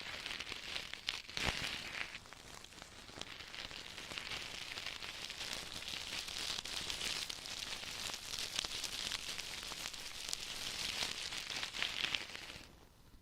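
Close-miked ear-cleaning tools scratching and rubbing inside an ear: a dense crackling rustle with many small clicks, stopping near the end.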